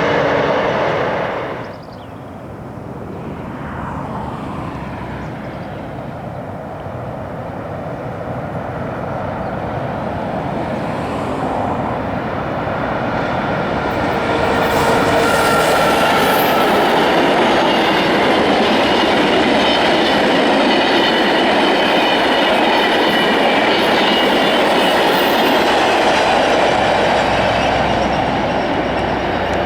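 Train running on the track, loud and steady. The sound drops sharply about two seconds in, then builds over roughly a dozen seconds and holds.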